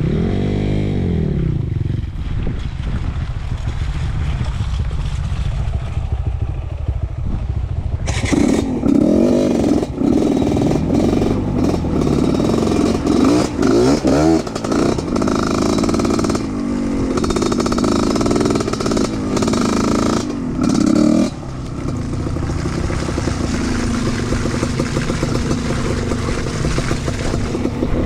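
Trail motorcycle engine running while being ridden, its pitch rising and falling as the throttle opens and closes. About a third of the way in it grows louder and more rattly for some thirteen seconds, then settles back to a steadier run.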